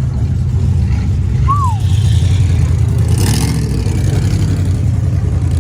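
A car engine running with a steady low rumble, with a brief louder noisy burst about three seconds in.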